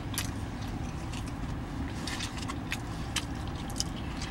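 A person chewing food with mouth closed, a scatter of small sharp clicks, over a steady low hum inside a parked car.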